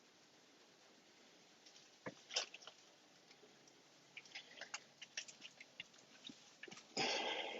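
Faint scattered clicks and crackles, then a short louder rustling noise near the end.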